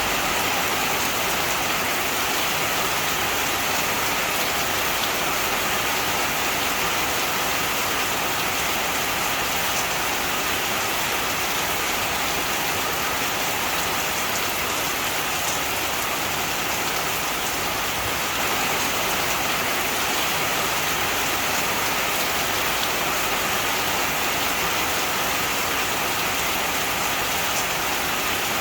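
Heavy rain falling steadily, an even hiss of raindrops on surfaces.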